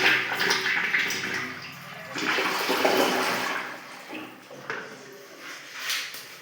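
Toilet flushing: a rush of water in two surges over the first three seconds or so, then fading, with a few small knocks.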